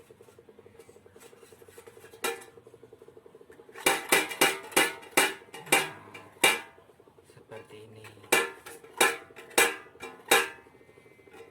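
Tin cans on a homemade wind-driven propeller bird and rat scarer being struck, giving sharp metallic clanks that ring briefly: a quick run of about eight halfway through, then single clanks about every half second to a second. A faint steady hum lies underneath.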